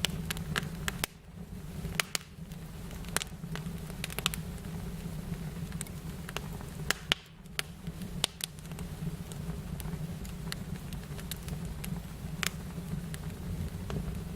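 Fire crackling, with sharp pops at irregular intervals over a steady low hum.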